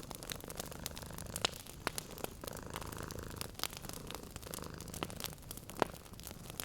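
Domestic cat purring steadily, with a wood fire crackling in scattered sharp pops.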